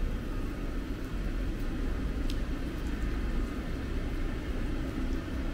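Train at a station, a steady low rumble with no rise or fall and one brief click about two seconds in.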